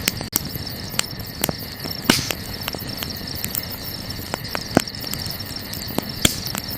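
Wood campfire crackling, with irregular sharp pops and snaps, a louder pop about two seconds in. Beneath it runs a steady high-pitched chirring, like night insects.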